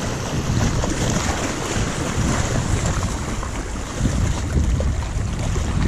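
Strong wind buffeting the microphone: a heavy, fluttering rumble with a steady hiss above it, gusting without a break.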